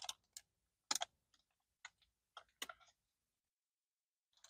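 Faint mouth clicks and smacks of chewing a bite of soft pretzel: a handful of short, sharp sounds spread over the first three seconds, with near silence between them.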